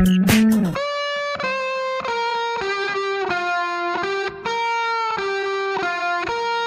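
Background music: an electric guitar plays a melody of held notes, after a short burst of drum hits at the start.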